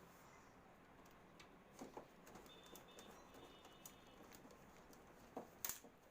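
Near silence: room tone with a few faint clicks and knocks, the loudest about five and a half seconds in.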